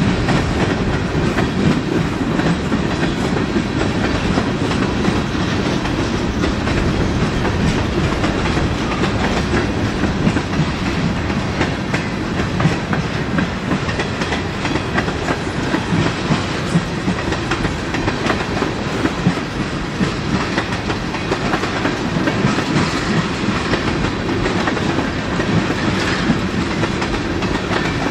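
Freight train rolling by, boxcars and then tank cars passing: steady noise of steel wheels on the rails with continual clicking over the rail joints.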